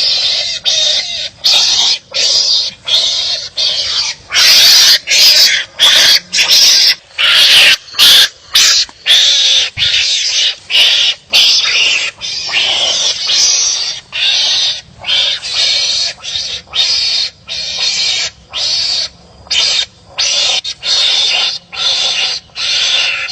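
Wild animals giving harsh, rasping barking cries at each other, as in a fight, repeating about twice a second. The cries are loudest a few seconds in.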